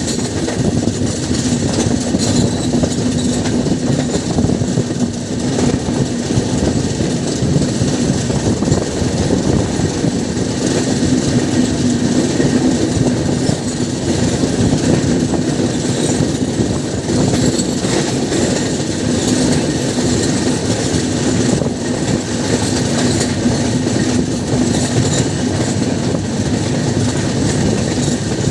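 Train running on the track: a continuous rumble of wheels on rail with a steady low hum and scattered faint clicks.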